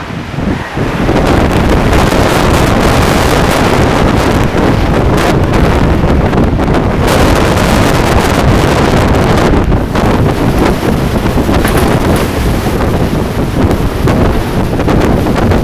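Extreme wind blasting across the microphone: loud, continuous buffeting that swells about half a second in and keeps gusting unevenly.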